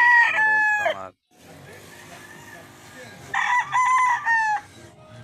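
Rooster crowing: the tail of one crow in the first second, then another full crow of several drawn-out notes about three seconds in.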